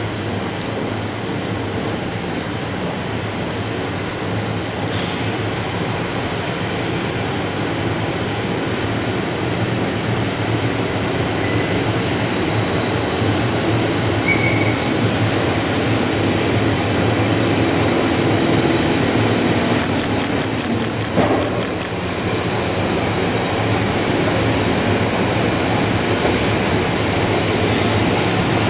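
JR Freight EF210 electric locomotive and its empty long-rail wagons running past, a steady rumble that grows louder as the train nears. Past the middle there is a quick run of clicks, and a thin high squeal holds over most of the last third.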